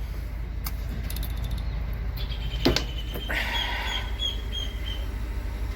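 A bird chirping a quick run of short, high calls, about four a second, starting about three seconds in, over a steady low outdoor rumble; a single sharp click comes just before the calls.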